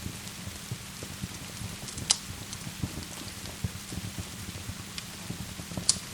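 Steady rain pattering with a crackling wood fire. Two sharp pops stand out, about two seconds in and near the end.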